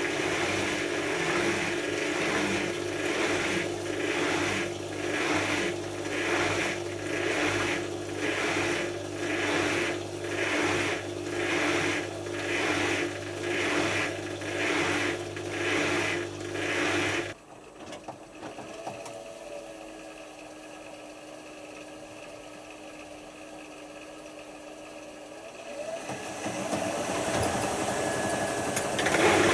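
Hotpoint HF8B593 washing machine spinning on a synthetics rinse, with a steady motor hum and a whoosh about once a second; about 17 seconds in the motor cuts out and the drum coasts down with a slowly falling whine. Near the end a rushing sound of water starts, the machine filling for the next rinse.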